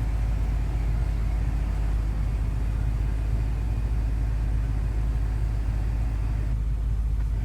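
Steady low rumble inside a car's cabin, unchanging and without distinct events.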